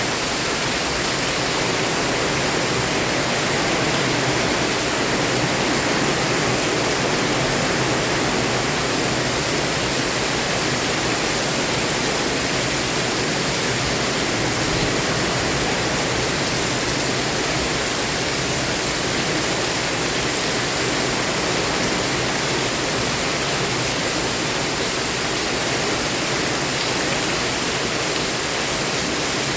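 Heavy rain pouring steadily, a dense, even hiss that doesn't change.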